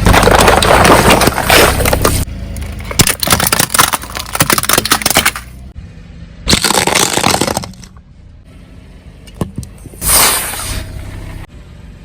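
A car tyre rolling over and crushing crunchy objects: four bursts of dense crackling and crunching, each one or two seconds long and each cutting off abruptly. A low engine hum runs beneath the first ones.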